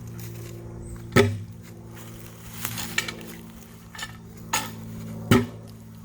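Several sharp knocks, two of them loud and about four seconds apart, over a steady low hum.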